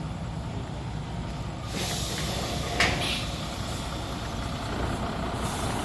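Ashok Leyland Boss truck's diesel engine idling, with compressed-air hissing from the air brakes: a hiss from about two seconds in with a sharp puff near three seconds, and another short hiss near the end.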